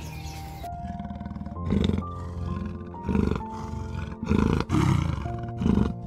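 Leopard calling: five short, loud calls about a second apart, over soft background music with sustained notes.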